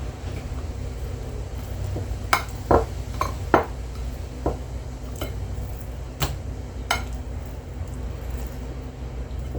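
Utensils clinking and knocking against dishes, a handful of sharp clinks through the middle, over a steady low hum.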